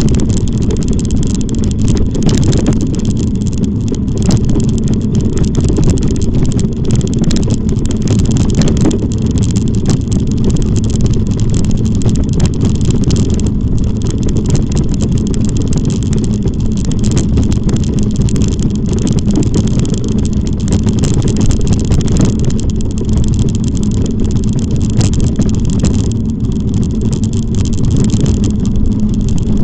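Wind rumbling steadily and loudly on the camera microphone of a moving e-bike, with scattered small ticks and rattles.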